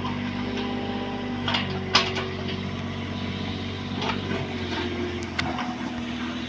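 Bobcat 322 mini excavator's diesel engine running steadily, with several sharp knocks and clanks over it, the loudest about two seconds in.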